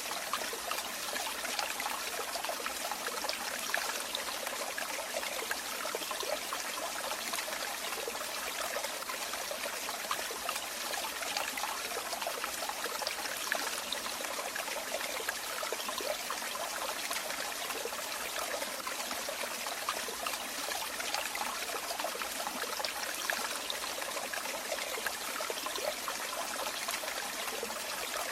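Running water flowing and trickling in a steady, unbroken stream, with fine splashing detail and little deep rumble.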